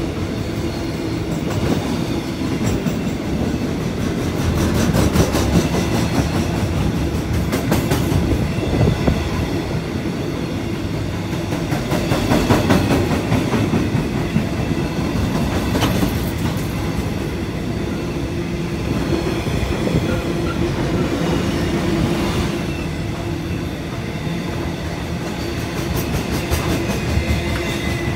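Container freight train's wagons rolling steadily past, their wheels clicking over the rail joints above a continuous rumble.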